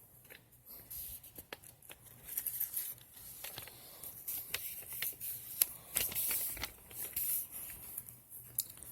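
Paper rustling with scattered light clicks and taps as a printed instruction manual is handled and its pages turned.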